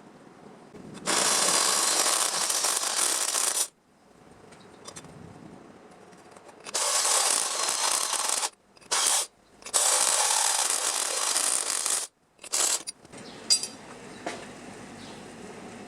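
A power tool working sheet metal in several runs of a few seconds each, starting and stopping abruptly, with short blips in between and a sharp tick near the end.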